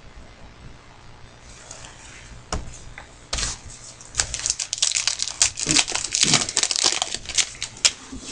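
Trading card pack wrappers crinkling as they are torn open and handled, faint at first and then loud, dense crackling with sharp snaps from about three seconds in.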